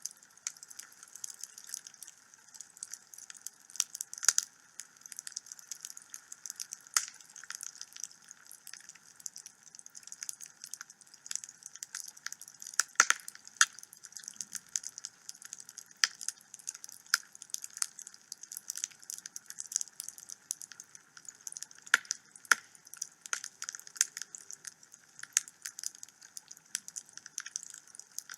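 Wood fire burning in a home fireplace: a steady run of irregular crackles and snaps from the burning logs, with a few louder pops, over a faint hiss.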